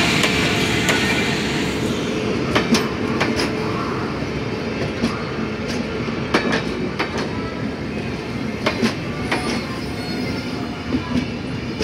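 Passenger coaches of an arriving express rolling past along the platform. There is a steady rumble, and the wheels click over rail joints at irregular intervals, some clicks coming in pairs. A louder rush at the start, as the locomotive goes by, fades over the first two seconds.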